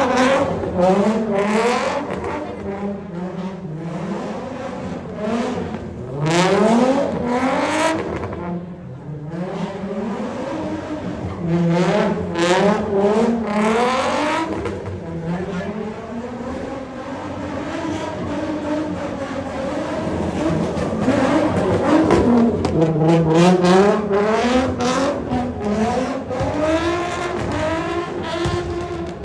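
Car engines revving again and again, the pitch climbing and falling in repeated sweeps.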